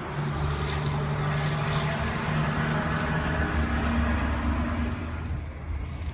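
A vehicle engine running, a steady low hum with a couple of held tones that eases off slightly near the end.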